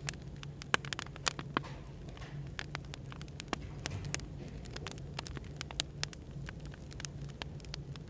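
Burning firewood crackling, with irregular sharp pops several times a second, over a steady low hum of background noise.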